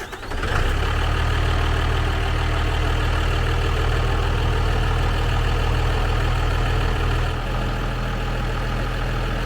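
A Cummins turbo diesel in a Dodge Ram 3500 catches from cranking about half a second in and then runs on steadily, easing a little about seven seconds in. This is its first run after a cylinder-head rebuild, with the fuel lines not primed.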